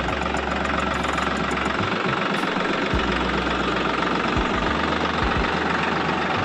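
Steady engine-like running noise from the DIY mini tractor, an even drone without breaks and with a low hum under it.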